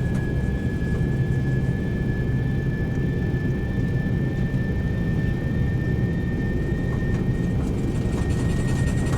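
Jet airliner engines running, a steady low rumble with a thin high whine held throughout that rises slightly in pitch.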